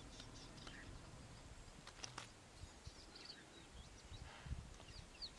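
Small birds chirping faintly over low background noise, with short high chirps a few times around the middle and several more near the end.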